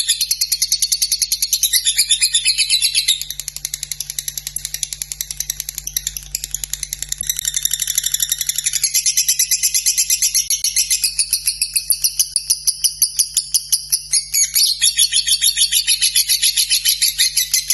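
Lovebird singing a long, unbroken, high-pitched chattering trill of rapid pulses, the drawn-out 'ngekek' song. It softens about three seconds in, comes back up about nine seconds in, and the pulses become slower and more distinct toward the end.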